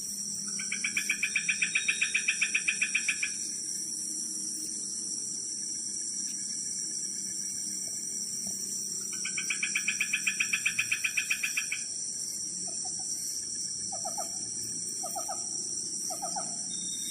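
An unidentified wild animal calling at dusk: two rapid, pulsing trills of about three seconds each, several seconds apart, then a run of about six soft, short, lower notes. A steady high drone of insects runs underneath.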